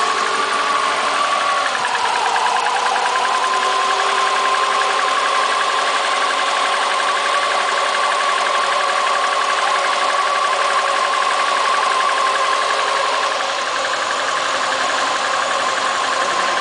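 2002 Subaru WRX's turbocharged 2.0-litre flat-four idling steadily. The engine has low compression and is throwing misfire codes on cylinders 1, 2 and 3, and the owner hears piston slap in its running.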